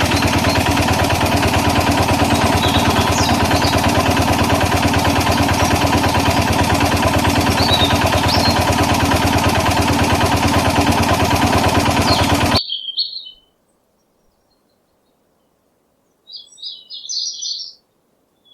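Tractor engine running steadily with a fast, even beat, cutting off abruptly about twelve seconds in. After it, a few short bird chirps in near quiet.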